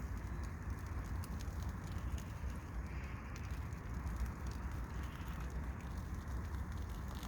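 Steady outdoor background of wind and distant road traffic, a low rumble that rises and falls, with faint scattered ticks over it.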